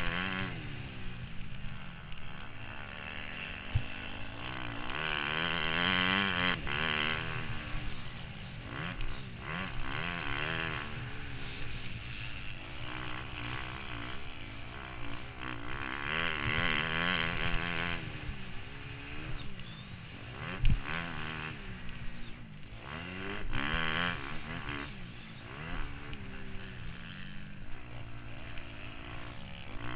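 Motocross bike engine heard from the rider's helmet, its note rising and falling again and again as the throttle is opened and shut around the track, with a sharp knock about two-thirds of the way through.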